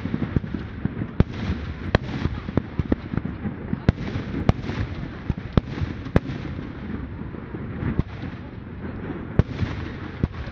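Fireworks display: aerial shells and firecrackers going off in sharp, irregular bangs, sometimes several a second, over a steady low background of crowd noise.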